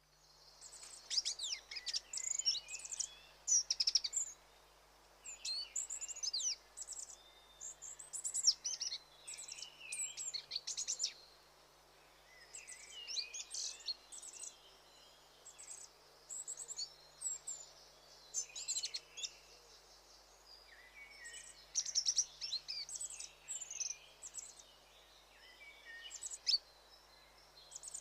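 Small songbird singing: phrases of quick, high, rapidly changing notes, each lasting a few seconds, with short pauses between them.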